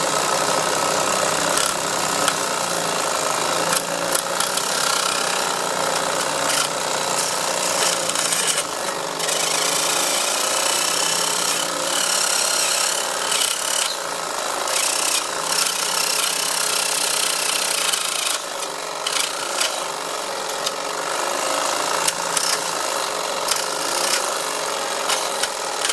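Wilesco D141 toy steam engine running and driving a miniature workshop saw while a piece of wood is pushed into the blade by hand, making a continuous rasping, rubbing noise with irregular small knocks.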